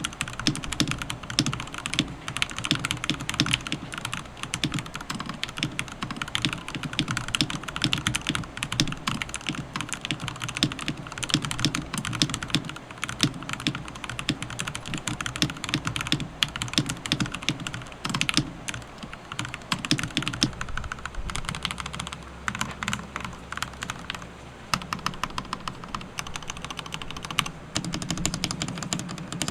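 Modded Royal Kludge RK68 mechanical keyboard being typed on fast: a dense, continuous run of keystroke clicks, thinning out briefly past the middle.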